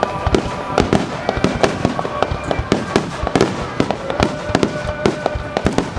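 Fireworks finale barrage: shells bursting in rapid, overlapping bangs, several a second, without a break.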